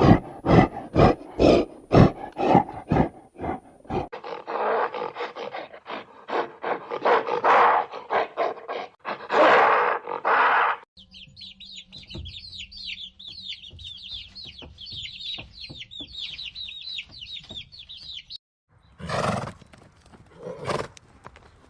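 A run of different animal calls, one after another: a fast series of rhythmic pulsing calls, then a dense, noisier stretch, then a long run of high, rapid chirping, and two loud calls near the end.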